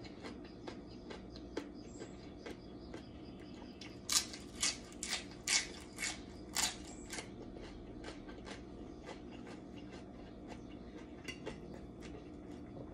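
Close-miked crunchy chewing of crisp lettuce leaf. About four seconds in comes a run of about six loud crunches, with softer chewing clicks before and after.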